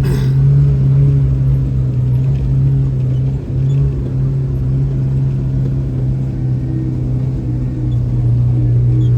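Kawasaki side-by-side UTV engine and drivetrain droning steadily while driving, heard from inside its enclosed cab, with a brief dip about three and a half seconds in. A short click sounds right at the start.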